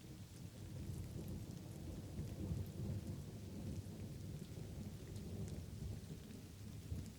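Rolling thunder: a long low rumble that swells about a second in and is strongest near the middle, over light rain with scattered drop ticks.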